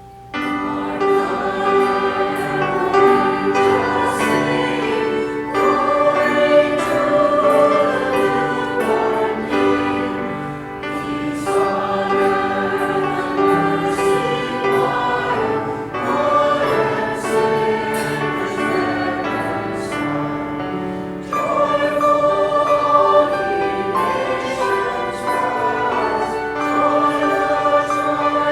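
Church choir singing, coming in loudly right at the start and moving through several sustained phrases.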